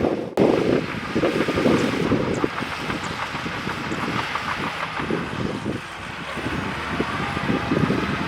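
Bulldozer's diesel engine running under load with wind on the microphone, the sound surging unevenly. It drops out very briefly, as at an edit cut, about a third of a second in.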